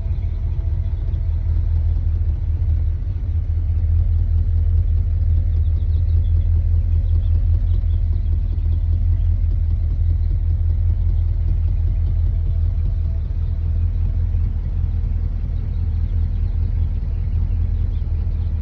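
1958 Edsel Pacer's E-400 V8 engine idling steadily with a deep, even rumble.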